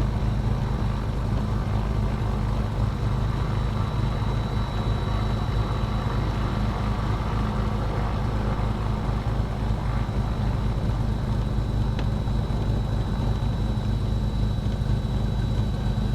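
Cessna 310's twin six-cylinder piston engines running steadily at low power on the ground, an even low drone.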